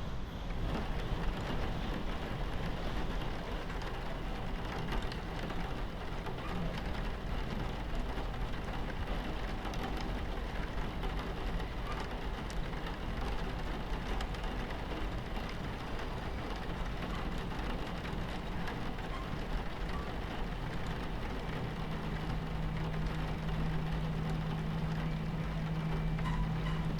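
Train cabin ambience: the steady rumble of a train running on its tracks, with rain on the window. A steady low hum joins in for the last five seconds or so.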